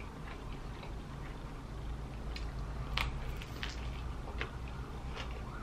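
A person chewing and biting into a large soft-bun burger sandwich: scattered faint mouth clicks and smacks, the strongest about three seconds in, over a low steady hum.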